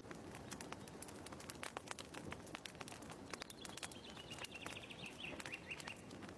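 Wood fire crackling in a fireplace: faint, with scattered sharp pops and snaps over a soft low hiss. A faint high thin tone drifts slightly downward through the second half.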